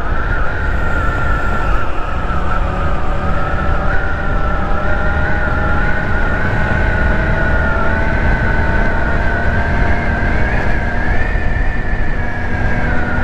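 A GY6 150cc four-stroke single-cylinder scooter running at a steady cruise, with a loud low rumble under a high whine that wavers slightly in pitch, and fainter tones beneath that drift slowly upward.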